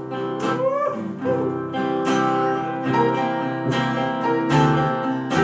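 Live blues band playing an instrumental passage between sung lines, with guitar to the fore.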